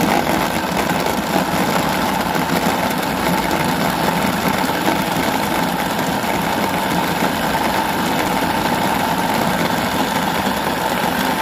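An electric kitchen appliance's motor running steadily, switched on and off abruptly.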